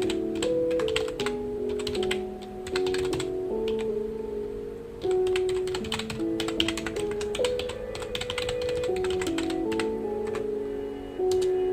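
Typing on a computer keyboard: rapid key clicks in bursts with short pauses between them, over background music of held notes that change every second or so.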